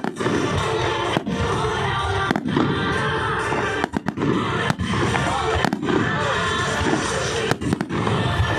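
Fireworks bursting again and again during a salute, over loud music.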